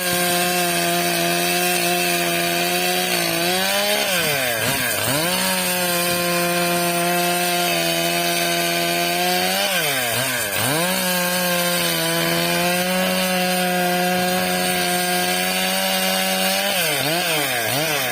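Stihl MS 661 two-stroke chainsaw ripping lengthwise through a eucalyptus log, its engine held at a steady high speed. Its pitch drops sharply and recovers in quick dips about four seconds in, around ten seconds and again near the end.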